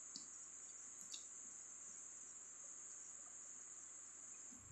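Faint, steady high-pitched trill of crickets, with a couple of light clicks near the start and about a second in.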